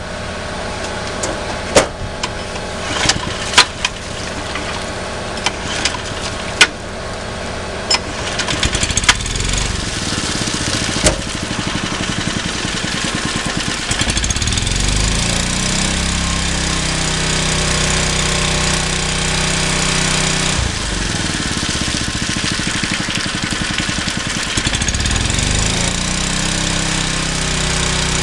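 Small engine of a Koshin SEM-40F engine-driven water pump running with a fast thumping beat, with several sharp knocks over the first ten seconds or so. About 14 seconds in it settles to a steadier, higher speed, dips briefly around 20 seconds and picks up again near the end.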